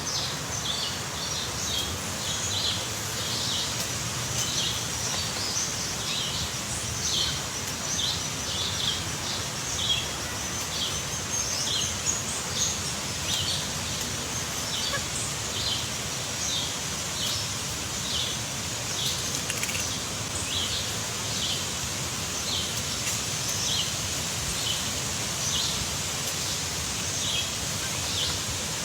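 A bird chirping short, high notes over and over, about once or twice a second, over a steady hiss of outdoor background noise.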